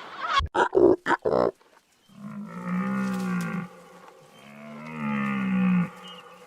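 A large animal gives two long, low, moo-like calls, each about a second and a half long. A few short, sharp sounds come just before them.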